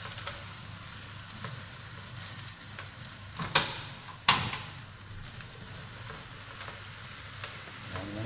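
Beef and greens sizzling steadily as they stir-fry in a hot pan, with two loud sharp knocks a little under a second apart about halfway through.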